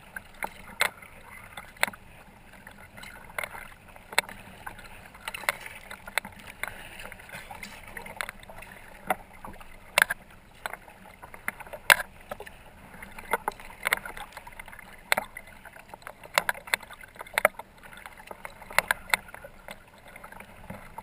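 Kayak paddle strokes: the blades dip and splash in the water about once a second, with water trickling between strokes.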